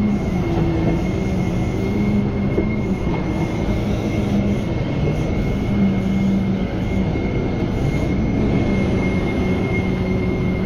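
Heavy tow truck's diesel engine running, with a steady high whine and low drone whose pitch shifts a little as the load changes.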